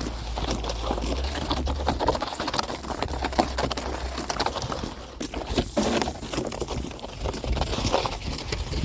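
Footsteps crunching through snow in quick, uneven steps, with a low rumble that drops away about two seconds in.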